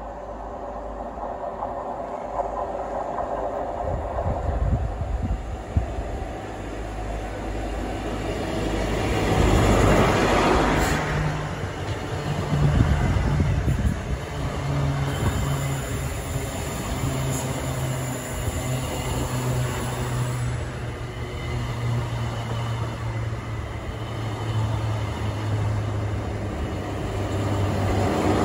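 High Speed Train with Class 43 diesel power cars passing close by. The sound builds to a peak about ten seconds in as the train arrives. The coaches then roll past the rails with a steady low diesel engine hum, which grows louder again near the end as the power car at the far end comes up.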